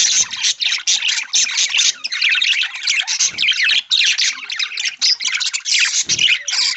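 A flock of budgerigars chattering and warbling together, a dense unbroken stream of rapid high chirps and squawks.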